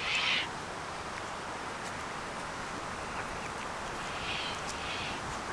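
Steady outdoor hiss with a few short bird calls: one right at the start and two more close together near the end.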